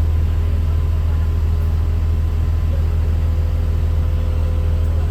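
Caterpillar C7 inline-six diesel engine of a 2007 Blue Bird Vision school bus running steadily, a low, even drone heard from inside the bus cabin.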